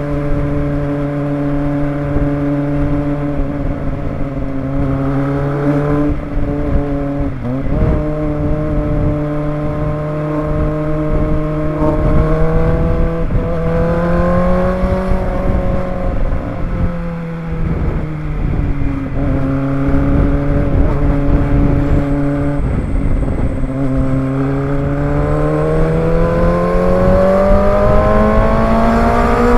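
Kawasaki ZX-25R's inline-four engine running under way, holding fairly steady revs with a brief break and dip in pitch about seven seconds in. The pitch rises steadily over the last five seconds as the bike accelerates.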